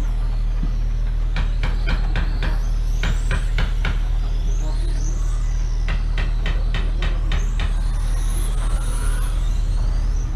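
Small motors of radio-controlled racing motorcycles whining, rising and falling in pitch as they speed up and slow down around the track, over a steady low hum. Two runs of quick sharp clicks, about five a second, come near the start and again past the middle.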